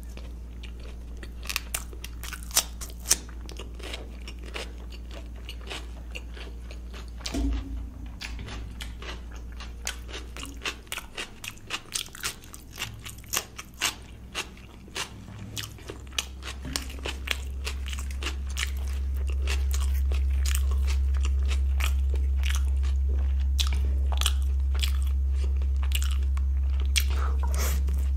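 Close-miked eating of luchi (deep-fried puri) dipped in paneer curry: chewing with many sharp, quick mouth clicks and smacks. A steady low hum underneath swells louder about two-thirds of the way through and stays.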